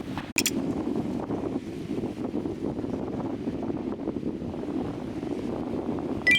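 Strong wind buffeting the microphone, a steady rough rush, with what may be lake water lapping underneath. There is a brief sharp click just after the start and another near the end.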